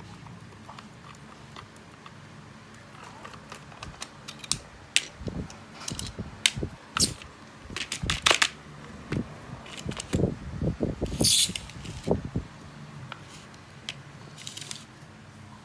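Irregular clicks, knocks and scrapes of a Hitachi 12 V cordless drill's hard plastic housing and parts being handled as it is taken apart, busiest in the middle, with a short scraping burst about eleven seconds in.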